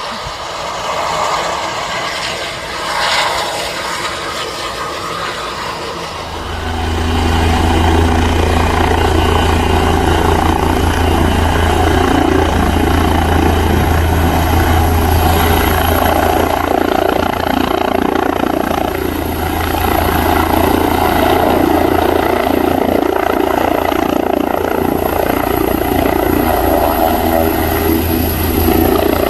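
Air ambulance helicopter coming in to land close by: rotor and turbine noise that grows much louder about six seconds in and then stays loud and steady with a deep rotor drone.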